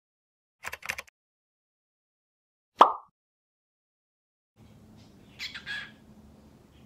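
A quick cluster of short sharp sounds, then a single louder sharp sound near three seconds, over dead silence. Low room hum then comes in, and a pet bird gives a brief chirping call near the end.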